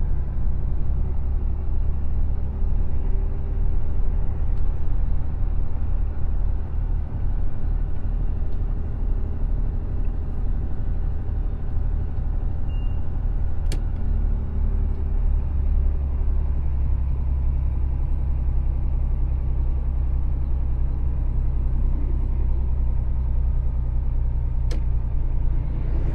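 Mercedes-Benz Actros truck running down the road: a steady low drone of engine and rolling noise. Two sharp clicks, one about halfway through and another near the end.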